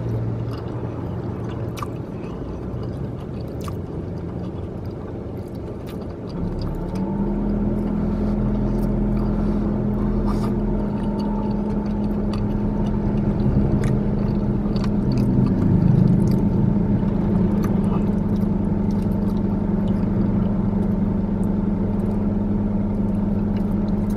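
Car engine idling with the air-conditioning running, a steady hum inside the car's cabin; about six or seven seconds in it steps up to a louder, steady drone. Small clicks from a plastic fork and chewing come through now and then.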